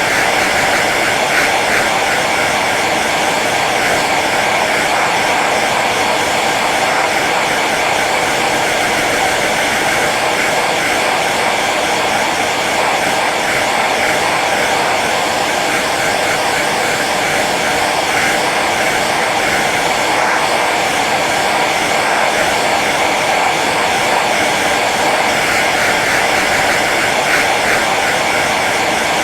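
Hair dryer running steadily on its low setting: an even rush of blown air over the motor's hum, unchanging throughout.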